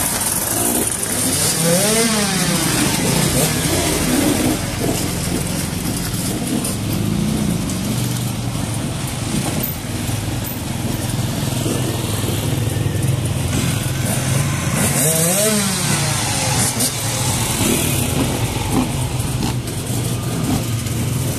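Enduro dirt-bike engines running steadily, with a quick rev that rises and falls in pitch about two seconds in and another about three-quarters of the way through.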